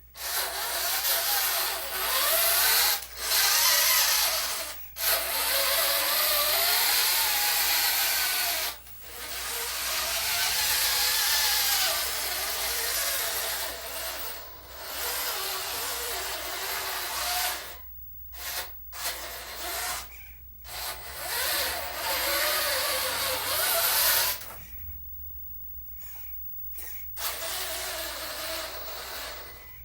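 Small electric motors and gearing of a hydraulic-converted Huina RC dump truck running in repeated bursts of a few seconds each, starting and stopping, with a whine that wavers in pitch.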